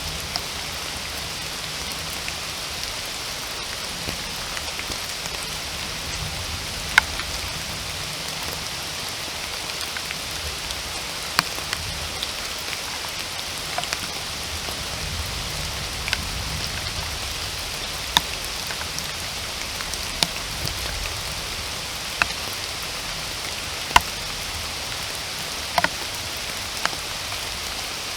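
Steady rain falling in a forest, an even hiss, with single louder drops landing close by every second or two.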